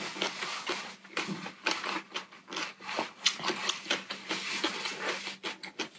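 Close-miked chewing of a mouthful of food with the mouth closed: irregular wet clicks and smacks.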